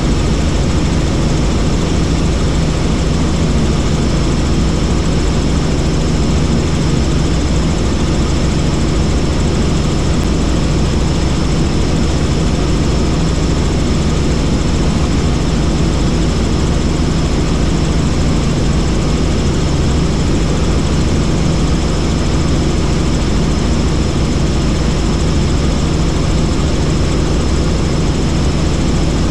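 Helicopter in flight: steady, loud engine and rotor noise with a thin high whine held throughout.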